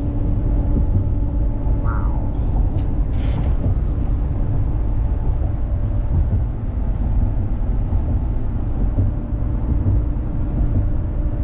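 Motorhome driving at road speed, heard from inside the cab: a steady low rumble of engine and tyre noise with a faint steady hum.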